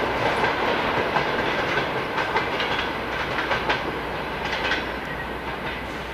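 Passenger train coaches rolling away, their wheels clattering irregularly over the rail joints, the sound fading in the last couple of seconds as the train recedes.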